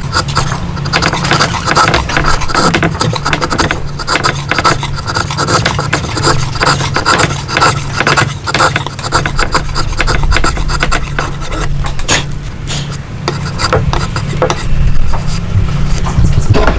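Rapid, repeated scraping strokes of a hand tool working wood, over a steady low hum that stops near the end.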